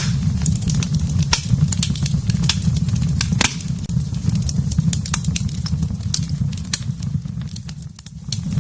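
Wood fire burning in a fireplace: a steady low rumble of flames with frequent sharp crackles and pops, one louder pop about three and a half seconds in.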